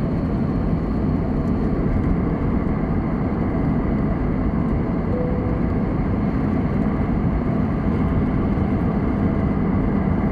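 Steady cabin noise inside an Airbus A320-216 in flight: the even rush of airflow and the CFM56 engines, heavy in the low end, holding level.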